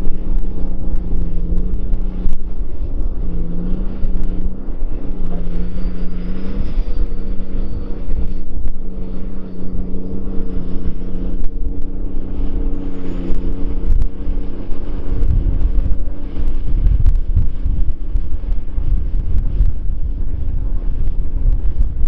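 New Holland 6090 tractor's engine running steadily while pulling a scraper, its note dipping briefly three times in the first few seconds. Wind buffets the microphone with a low rumble in the second half.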